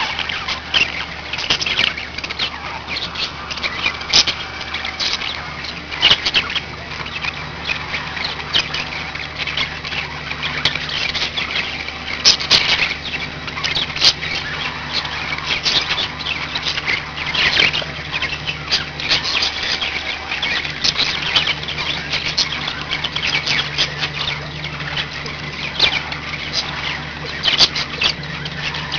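Several pet budgerigars chattering: a dense, continuous run of short chirps, warbles and squawks. A steady low hum lies underneath.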